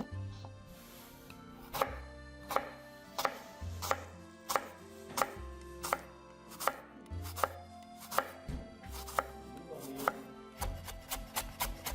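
A knife chopping on a cutting board in sharp, separate strokes, about one to two a second, quickening to rapid chopping near the end.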